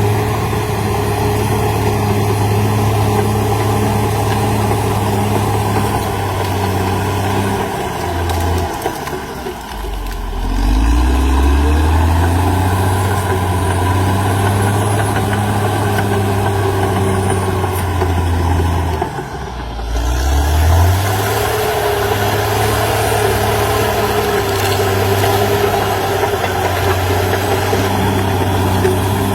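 CAT D6R XL bulldozer's diesel engine running steadily, twice sagging in pitch and level, about a third of the way in and again past the middle, then climbing back up.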